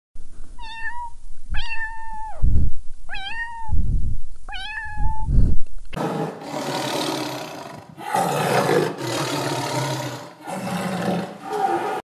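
A kitten meowing four times, short clear cries each falling a little at the end. About halfway through, this gives way to a tiger roaring in three long, rough calls.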